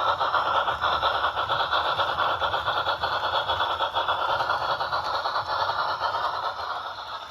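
Simulated steam locomotive exhaust chuffing from a DCC sound decoder, played through a small speaker mounted in an HO scale Rivarossi steam locomotive: a rapid, even run of chuffs that fades a little near the end.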